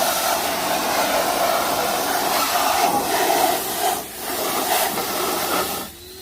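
Spray paint hissing steadily as the subframe is sprayed. The hiss breaks off briefly about four seconds in and stops near the end.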